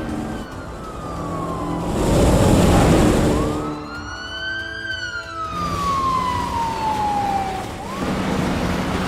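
Police car siren wailing in a slow rise and fall, each cycle climbing quickly and then gliding down over a few seconds. A loud rushing noise swells and fades about two to three seconds in.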